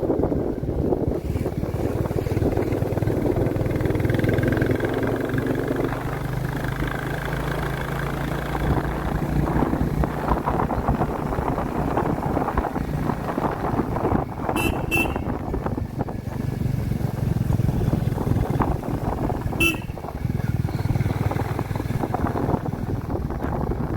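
Royal Enfield Classic 350 Reborn's single-cylinder engine running on the move, its note shifting as the rider changes speed. Three short high beeps cut through it: two in quick succession about two-thirds of the way through, and one more a few seconds later.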